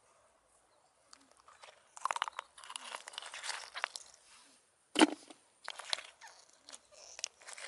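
Crackling, rustling handling noises that start about two seconds in, with one sharp knock about five seconds in.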